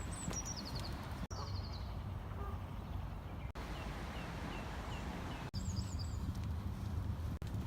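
Small birds chirping and singing over a steady low rumble, with a run of short, high peeps about halfway through. The sound cuts out briefly several times.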